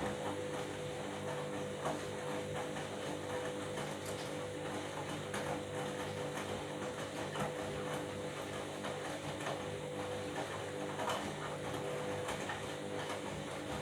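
Washing machine running, with a steady motor whine over a continuous light rattle and clicking from the drum.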